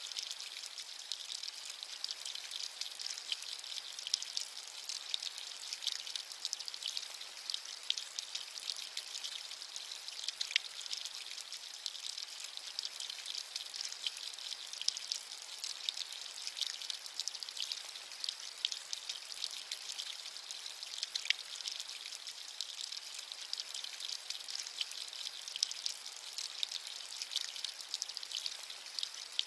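Steady rain with a dense patter of fine, crisp drops and a few louder single drops.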